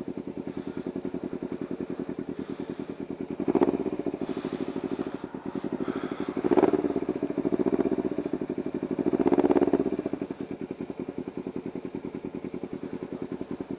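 Motorcycle engine idling with an even, rapid pulse, swelling louder briefly three times.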